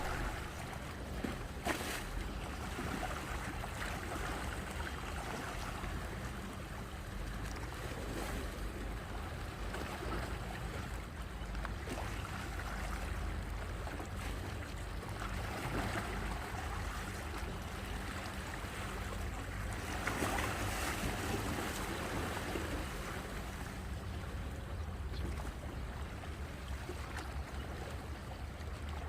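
Sea waves washing onto the shore as a steady wash. It swells a few times as larger waves come in, over a low rumble.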